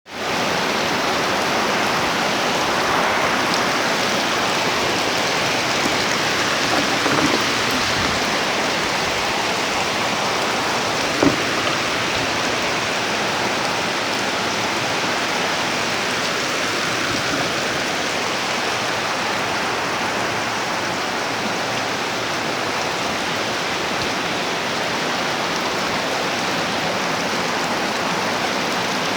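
Steady rain falling and pattering on surfaces, even throughout, with one sharp tick about eleven seconds in.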